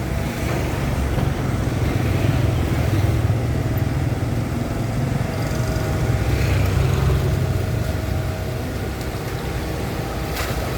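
Diesel excavator engine running steadily with a deep rumble that swells a little in the middle and eases slightly near the end.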